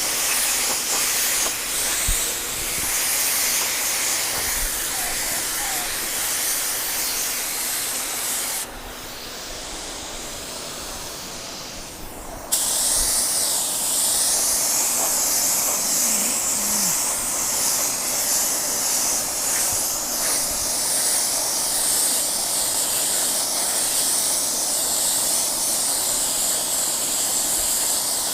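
Compressed-air paint spray gun hissing steadily as it sprays clear coat, with a break of about four seconds near the middle when the trigger is let go.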